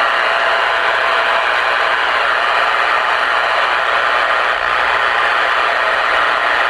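Steady radio static hissing from the speaker of a Ranger RCI-69FFB4 ten-meter radio on receive, with no signal coming through.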